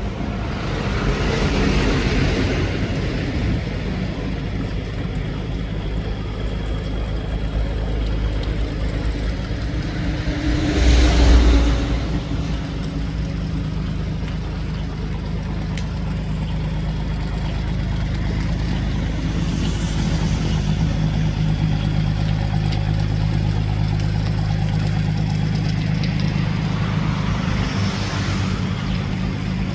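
A boat's engine running steadily at low revs, with a few slow swells of rushing noise and a brief louder low rumble about a third of the way through.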